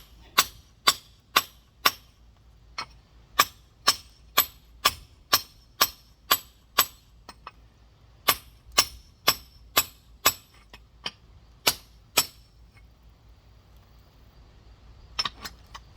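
A rock hammer striking a large geode in sharp, ringing hits about two a second, with a short pause about halfway and a quiet spell near the end followed by a few lighter taps. The hits are working a crack around the geode to shear it open.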